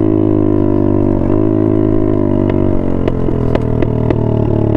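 Small dirt bike engine running steadily at full throttle, its note nearly constant with a brief dip about a second in. Several sharp clicks come through in the second half.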